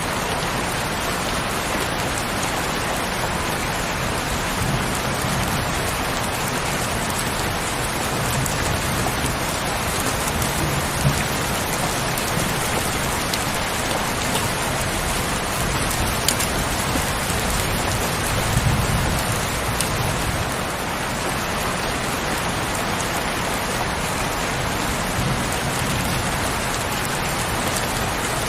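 Heavy rain falling steadily, a dense even hiss with a few sharper drop hits now and then and a soft low rumble underneath at times.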